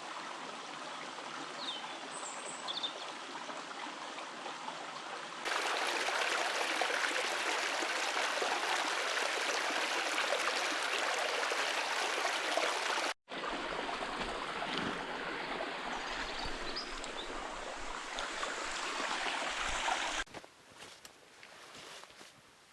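River water rushing steadily, heard in several cuts at different loudness. It is louder from about five seconds in, breaks off briefly near the middle, and drops to a much quieter background near the end.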